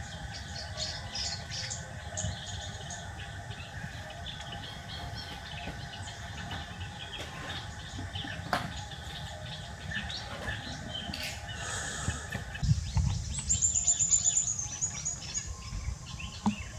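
Small birds chirping and twittering throughout, with a quick falling trill of high notes a little after the middle. Near the end there is louder rustling and handling noise from plastic packaging and cloth.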